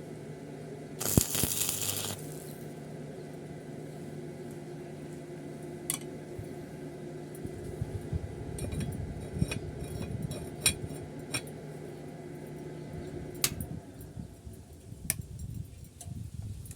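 Light metal clinks and taps, as of steel pieces being handled on a welding bench, over a steady electrical hum. There is a short loud hiss about a second in, and the hum stops near the end.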